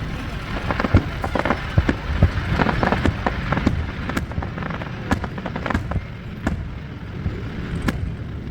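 Fireworks going off: an irregular run of sharp bangs and crackling pops over a steady low rumble, thickest in the first half.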